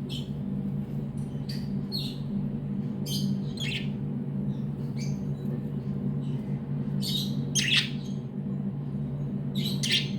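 Budgerigars chirping in short, scattered calls, over a steady low hum.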